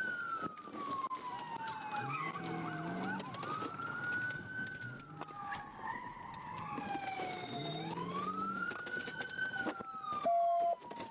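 Police siren wailing, slowly rising and falling about every four to five seconds. Just before the end a short, loud steady tone sounds.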